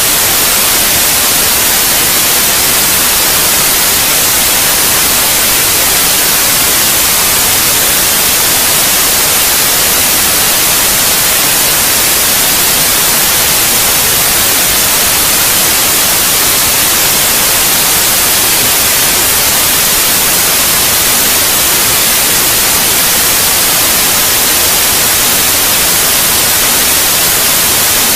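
Steady white noise: an even, loud hiss, strongest in the high end, that never changes.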